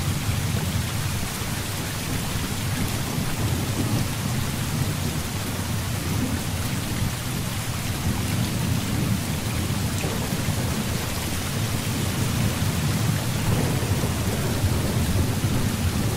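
Heavy rain falling steadily, with a continuous low rumble of thunder underneath that swells a little but never breaks into a sharp clap.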